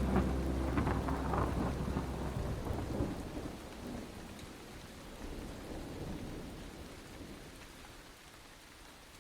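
Rain falling, with a low rumble of thunder at first, fading out gradually.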